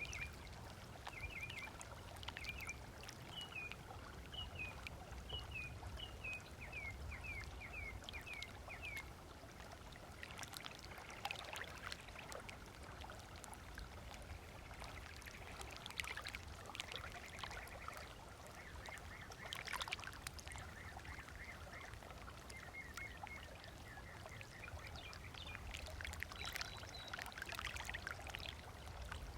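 Small waves lapping and splashing on a sandy lagoon shore. Over the first nine seconds a bird gives a long run of short, quick chirps, and it calls in another chirping run about two thirds of the way through.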